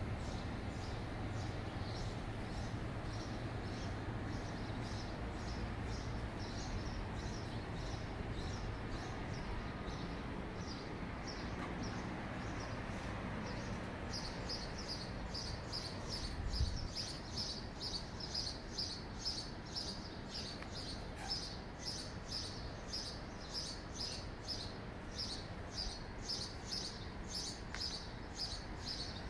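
A small bird chirping in quick, regular repeated notes, two or three a second, faint at first and much louder from about halfway through, over steady low city background noise. A single dull bump, the loudest moment, comes just after the chirping grows louder.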